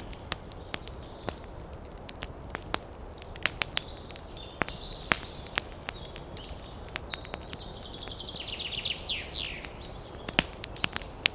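Campfire crackling, with irregular sharp pops from the burning wood over a steady low rumble. Birds call thinly in the background, and about nine seconds in one gives a quick run of falling notes.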